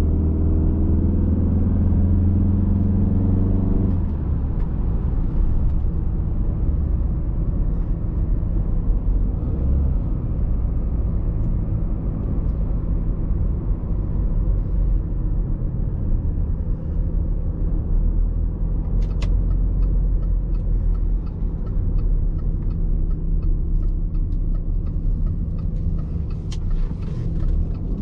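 Audi A6 C6's 2.0 TDI four-cylinder diesel pulling hard at one steady pitch for about four seconds, as the Multitronic CVT holds the revs under acceleration. It then eases off into a steady low drone of engine and road rumble.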